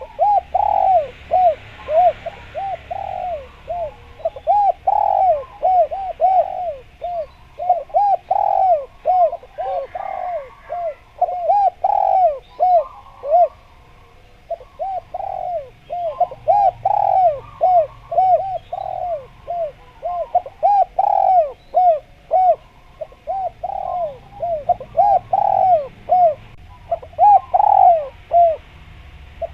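Spotted dove (derkuku) cooing vigorously: loud, rapid runs of short, arching coo notes, with a short lull about halfway through.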